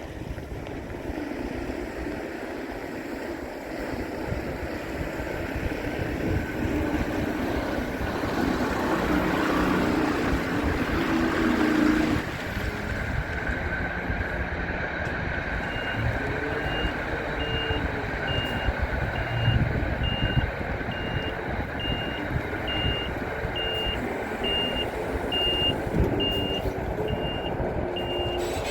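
Volvo FH tipper truck's engine running, building up over the first dozen seconds and then easing back. A little past halfway its reversing alarm starts beeping steadily, about one and a half high beeps a second, over the engine.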